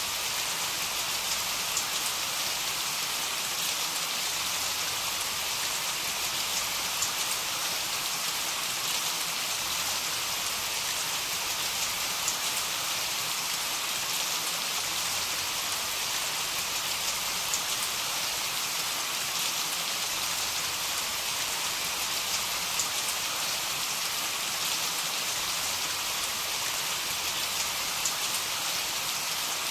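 Steady heavy rainfall: an even hiss of rain with faint scattered drop ticks.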